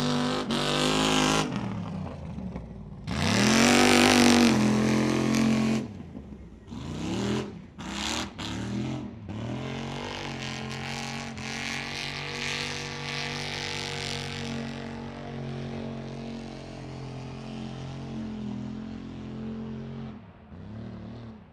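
Mud bog super truck's engine revving hard twice in the first six seconds, then a few short throttle blips, then running steadily for about ten seconds before dropping off near the end.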